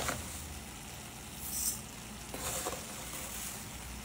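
Pork chops, diced potatoes and vegetables frying in oil in a pan with freshly added rice, giving a steady sizzle. Two brief louder bursts of hiss come about a second and a half in and again about two and a half seconds in.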